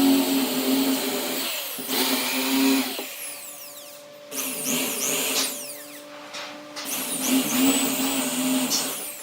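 An electric power tool running in several short bursts, starting and stopping about five times.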